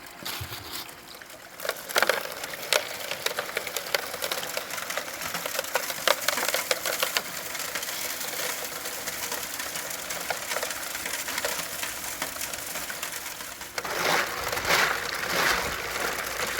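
Water running and pouring with many sharp clicks and rattles of gravel and small stones, as dirt is washed through prospecting gear; it grows louder near the end.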